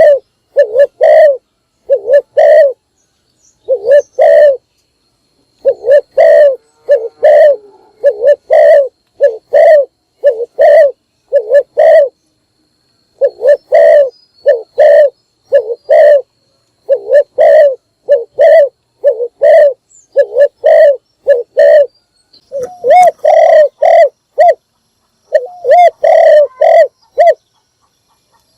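Spotted dove cooing loudly, a decoy call of quick repeated coos in phrases broken by short pauses.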